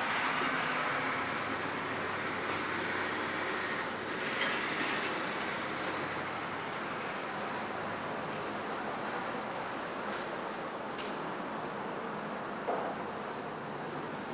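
Steady background hiss with a few faint clicks and knocks scattered through it.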